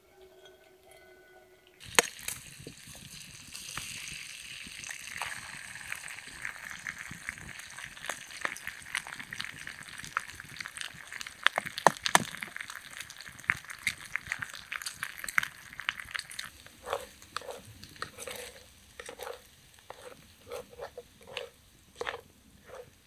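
Food sizzling in a metal pan over a wood campfire, with the fire crackling. About two seconds in the sizzling starts. Later it dies down and a plastic spatula scrapes and stirs the food in the pan, about twice a second.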